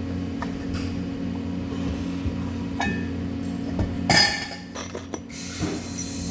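Metal clinking twice, a light clink and then a louder ringing one, over a steady low hum.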